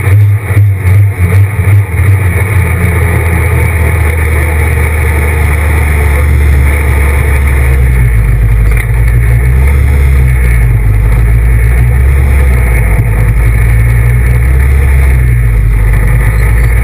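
Renault Clio R3 rally car's four-cylinder engine heard from inside the stripped cabin, running at low revs while the car rolls slowly. The level dips several times in the first two seconds as the throttle comes on and off, then the engine note holds steady.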